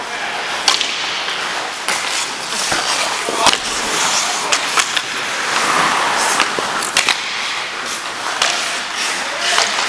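Ice hockey play: skate blades scraping and hissing on the ice, with sharp clacks of sticks and puck scattered through.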